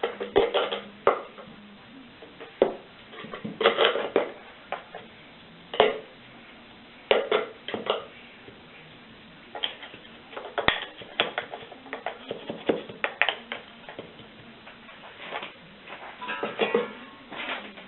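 Irregular clinks, taps and short scrapes of hand tools and metal while Petrobond oil-bonded casting sand is added and packed into a mold flask around a pattern.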